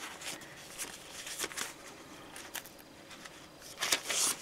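Paper pages and card tags of a handmade journal rustling and tapping as they are handled and leafed through, with a louder rustle about four seconds in.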